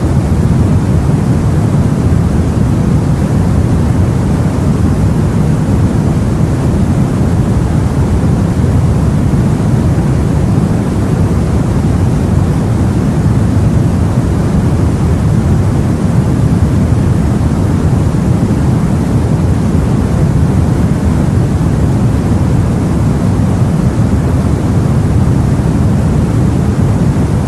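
Sea noise heard aboard a boat: a steady, low rushing rumble with no separate waves breaking.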